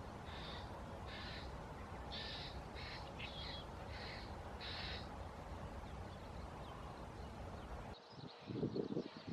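A bird calling in a series of about nine short calls, roughly two a second, that stop about five seconds in. Near the end the background changes abruptly and low rumbling wind noise on the microphone takes over.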